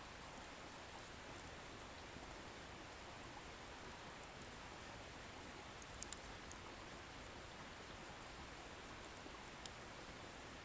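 Wood bonfire burning: a faint steady hiss with a few sharp crackles from the firewood, a quick cluster about six seconds in and a single one near the end.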